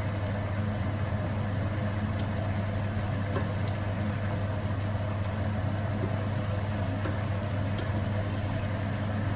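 A fan motor running steadily: a low hum with an even hiss over it.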